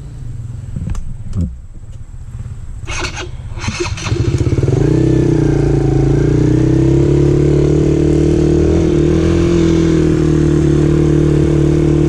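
Dirt bike engine, low at first with a few clicks and brief rustling, then from about four seconds in running loud and steady at a fairly constant pitch.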